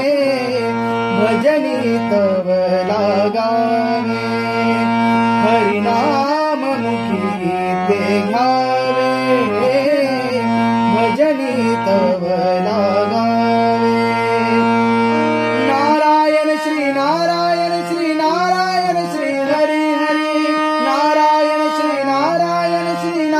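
Marathi devotional bhajan music: a winding, ornamented melody over steady held drone notes, with singing and light drumming. About 16 seconds in the low drone drops out and the melody carries on higher.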